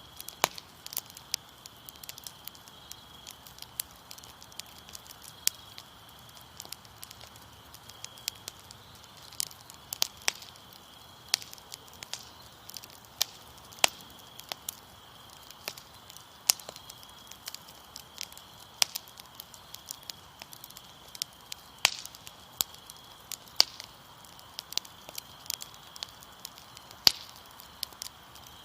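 Fire crackling with frequent irregular sharp pops, over a steady high trill of crickets.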